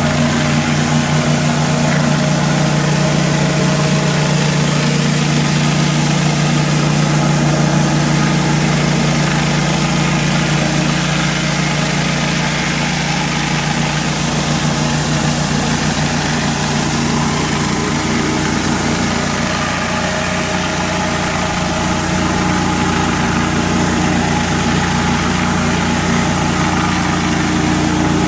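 Pressure washer's gas engine running steadily, with the hiss of high-pressure water spray.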